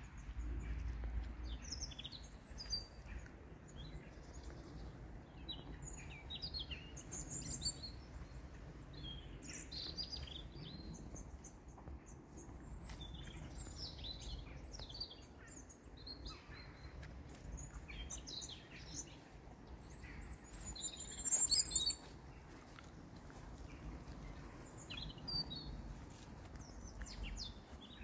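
Small songbirds chirping and twittering in short high calls throughout, with a louder quick high trill about three-quarters of the way through, over a faint low rumble.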